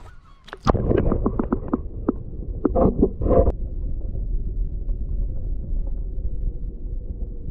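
Sea water heard with the microphone dipped under the surface: a sudden plunge with splashing and clicking, then a steady muffled underwater rumble and gurgle.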